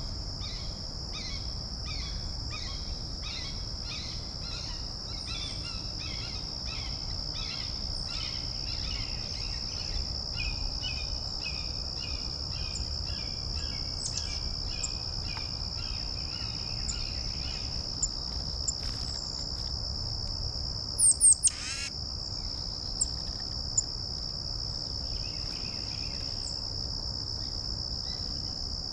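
A steady, high insect trill carries on throughout. Over it, a bird repeats quick notes, about two or three a second, for the first half or so, then gives one loud, sharply falling call about two-thirds of the way in.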